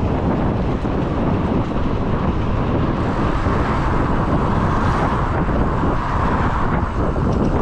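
Wind rumbling on the microphone of a moving bicycle, over street traffic noise; a passing vehicle's tyre hiss swells and fades around the middle.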